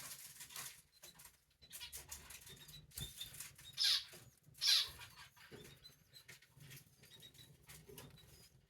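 Canary chicks stirring in the nest: rustling and wing flapping with faint high peeps, and two louder high calls that fall in pitch, about four and five seconds in.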